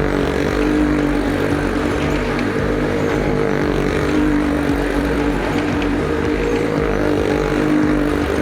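Stunt vehicle engines running hard around the wall of a well-of-death drum, a steady drone whose pitch and loudness swell and ease every second or two as they circle.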